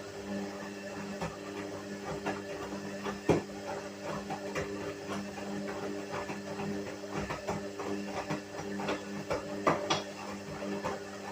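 Whirlpool washing machine running: a steady motor hum with irregular clicks and knocks from the drum, a sharper knock about three seconds in and again near the end.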